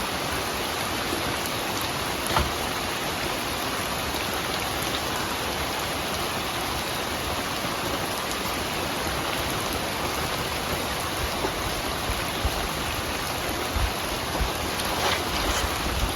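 Steady rain falling. There is a sharp tick about two seconds in and a few low thumps near the end.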